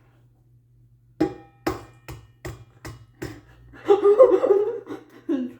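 An egg tapped repeatedly against the rim of a mixing bowl to crack it: six sharp knocks, about two or three a second. A short, loud vocal outburst follows about four seconds in.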